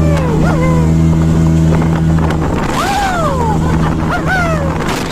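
Motorboat engine running with a steady drone, with wind on the microphone. Over it come several rising-and-falling whoops from people on board.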